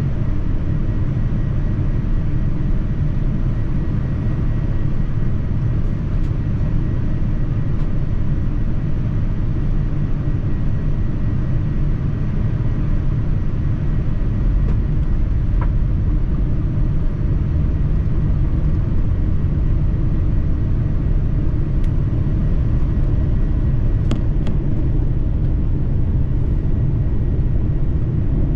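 Steady cabin noise inside a Boeing 787-9 airliner in flight: a low, even rumble of engine and airflow noise with a faint steady hum, and a few light ticks.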